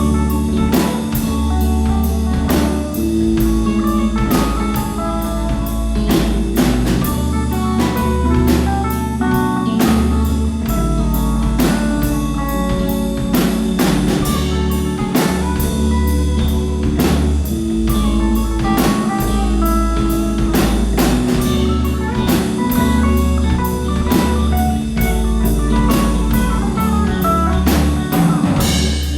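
A rock band playing a song: a drum kit keeps a steady beat under a moving bass line and guitar.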